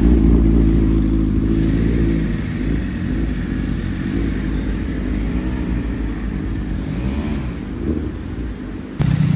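Sport motorcycle engine accelerating, loudest at the start and fading as it pulls away. About nine seconds in, the sound jumps abruptly to a louder, steadier engine.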